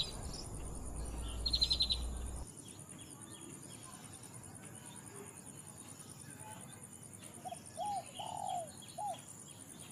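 Wild outdoor ambience: a steady, pulsing high insect buzz throughout, with bird calls over it, a fast trill about a second and a half in and a few short arched calls near the end.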